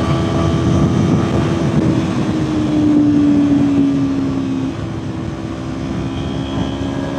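Kawasaki Ninja 400's parallel-twin engine running hard at high revs at highway speed, with wind rushing past. Its note sags slightly, and about four and a half seconds in it drops to a quieter, lower steady tone.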